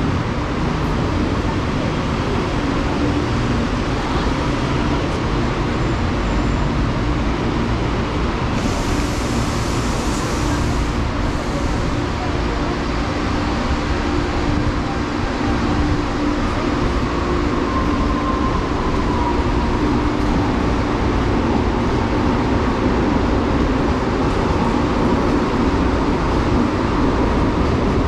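Electric commuter train running through the station, a steady loud rumble throughout. A burst of hissing comes about nine seconds in and lasts a couple of seconds. A faint rising whine follows a little past halfway.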